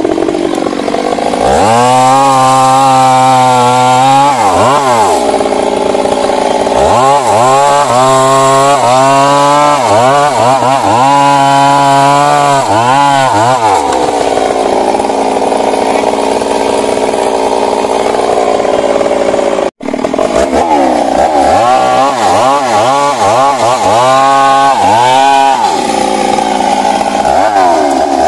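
Stihl MS 382 two-stroke chainsaw cutting into a large old tree, its engine revving up and dropping back again and again as the throttle is worked. The sound breaks off for a split second about two-thirds of the way through.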